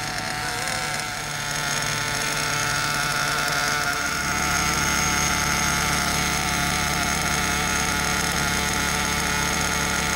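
Werks B5 nitro RC engine idling steadily on a rich first-tank break-in setting. About four seconds in, the sound grows fuller and a little louder in the low end.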